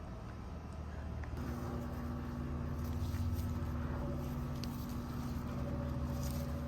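A steady low motor hum with several held tones, a higher tone joining about one and a half seconds in as it grows slightly louder.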